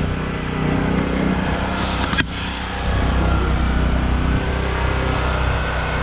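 Small kids' dirt bike engine running steadily, with a single sharp click about two seconds in.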